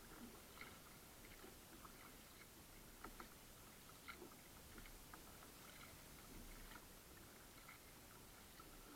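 Faint water sounds around a kayak: scattered small drips and light splashes from paddling, a few a little stronger about three and four seconds in, over a low steady hiss.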